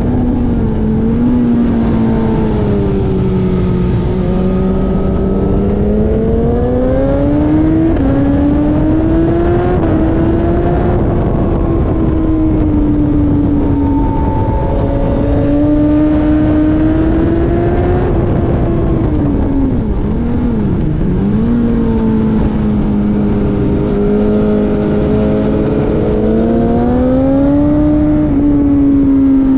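Race car engine running hard around the circuit, its pitch rising and falling repeatedly as it accelerates and eases off, with a quick drop and recovery about two-thirds of the way through.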